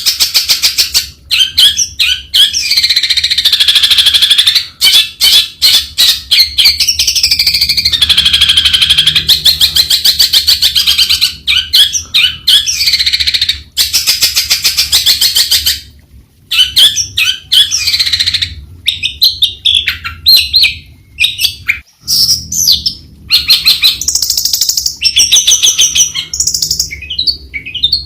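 Long-tailed shrike singing: a long, loud run of rapid chattering notes and warbled phrases, broken by short pauses about sixteen and twenty-two seconds in.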